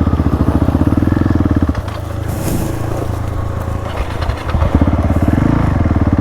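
Single-cylinder dirt bike engine chugging at low revs on a trail, with a fast, even beat. It eases off about two seconds in and picks up again just before five seconds.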